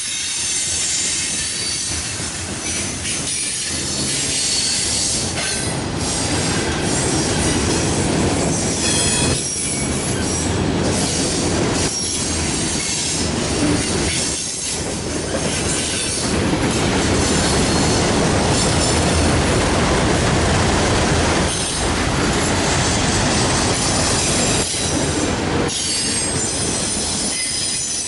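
Freight train of autorack and covered hopper cars rolling past close by: a steady, loud rumble and clatter of steel wheels on the rails, with a high wheel squeal running through it.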